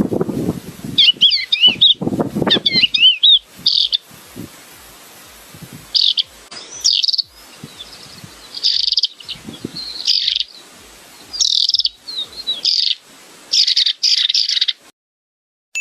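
A songbird singing in bursts of quick chirps and warbled whistled phrases, with short pauses between them. The song cuts off about a second before the end.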